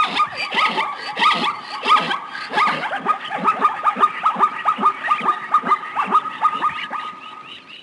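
Rapid chatter of animal calls: many short, sharply falling notes a few per second, mixed with clicks, cutting off abruptly near the end.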